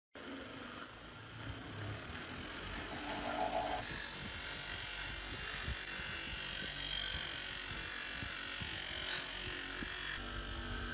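A small electric power tool running steadily, a whir with strong high hiss, starting abruptly at the beginning.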